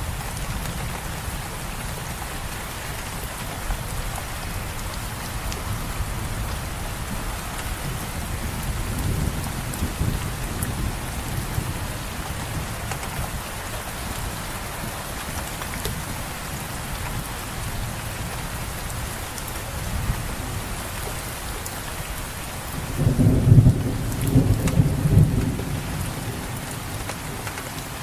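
Steady rain falling, with thunder rumbling low in the distance: a faint roll a third of the way in and a louder, longer roll a few seconds before the end.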